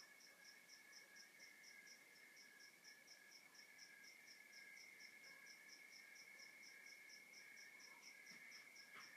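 Faint night chorus of crickets: a continuous high trill alongside a higher, evenly pulsed chirp repeating about five times a second.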